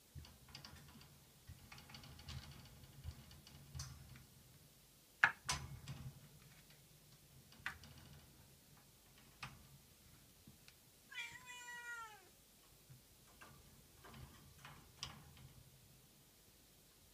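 A kitten meows once, about eleven seconds in, the call falling in pitch. Scattered small knocks and clicks come throughout, the loudest a sharp knock about five seconds in, over a faint low rumble.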